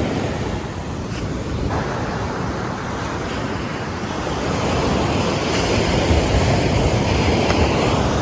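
Ocean surf washing onto a beach, a steady rushing noise, with wind rumbling on the microphone.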